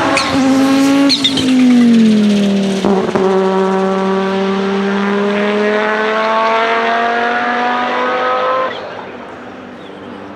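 The 1992 Audi S4 IMSA GTO race car's turbocharged 2.2-litre five-cylinder engine running hard. Its pitch dips about a second in and again near three seconds, then climbs slowly and steadily under acceleration. The sound drops away sharply near the end.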